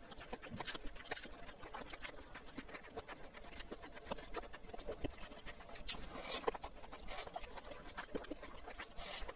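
Close-miked eating sounds: wet chewing and lip smacks of spicy squid and rice, with light clicks of a spoon scooping in the bowl and a few short breathy sounds about six seconds in.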